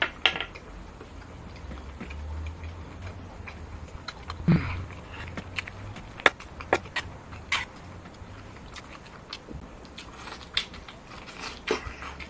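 Chewing and mouth sounds of someone eating, with a series of short sharp clinks and scrapes of a metal spoon against a steel serving pan as rice is scooped up.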